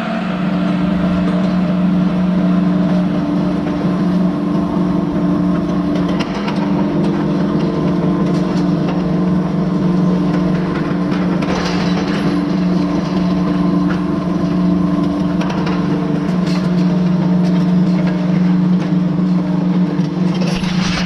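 Big Bud 16V-747 tractor's Detroit Diesel 16V92 two-stroke V16 engine running steadily under load while pulling a chisel plow, a constant low drone.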